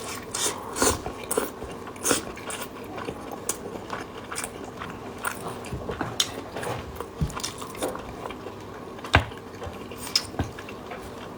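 A person biting and chewing braised pork knuckle close to the microphone: irregular wet mouth smacks and clicks, one louder about nine seconds in.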